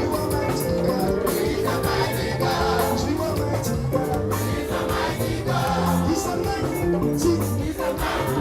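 Gospel praise music: voices singing together over instruments with a steady bass line.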